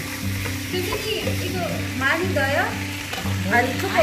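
Food sizzling as it is stir-fried in a pan and stirred with a wooden spatula, with background music over it.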